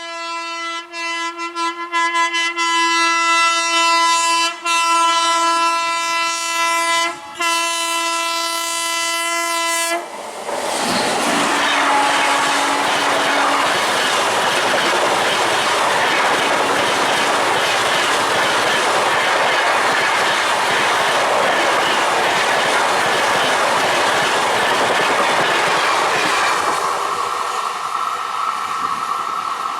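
Indian Railways locomotive horn sounding one long blast for about ten seconds, broken twice briefly. Then the train passes at speed, a steady rush of wheels and coaches on the rails that fades near the end.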